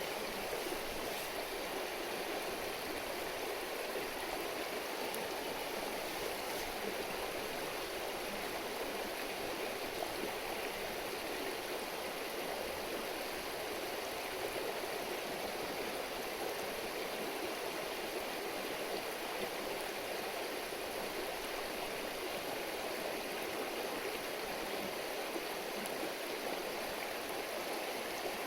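A river murmuring steadily: an even, unbroken rush of flowing water.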